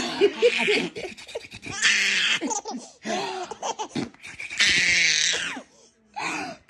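A baby laughing hard in about five bursts, high-pitched and breathy, with squeals.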